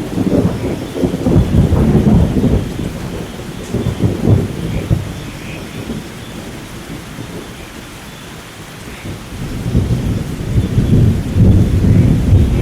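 Thunder rolling over steady rain: a loud rumbling peal at the start that dies away by the middle, then a second rumble building again near the end.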